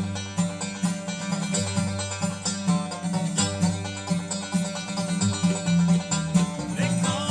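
Bluegrass band playing a song live, plucked acoustic string instruments picking over a steady low bass line, without singing.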